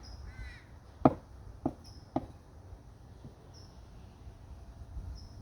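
Three sharp knocks about half a second apart, the first the loudest, with a crow cawing once near the start.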